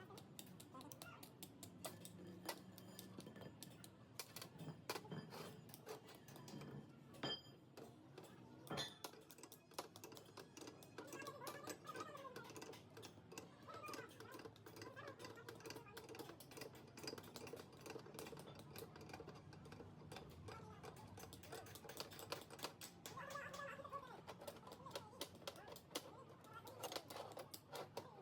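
Faint, irregular light clicks and taps, like small parts and hand tools being handled during a repair, with distant voices now and then.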